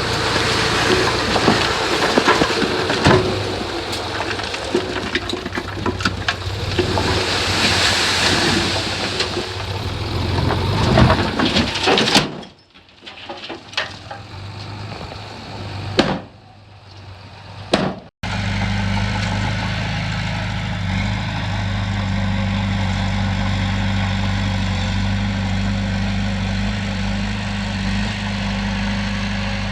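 Heavy diesel earthmoving machinery working hard, with scattered knocks over the engine noise. About 12 seconds in the sound drops away for several seconds. It then gives way to a steady, even diesel drone.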